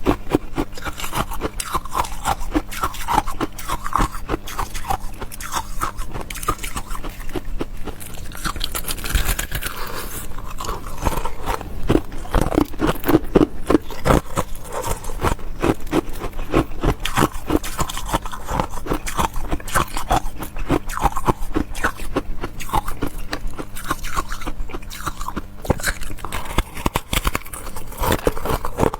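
Close-miked crunching and chewing of ice: a dense, unbroken run of crisp cracks and crunches as pieces are bitten and ground between the teeth.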